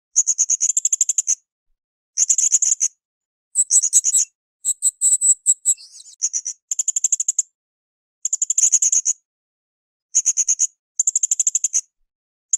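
Blue-crowned hanging parrot (srindit) calling in rapid, high-pitched chattering trills, in bursts of about a second repeated with short pauses.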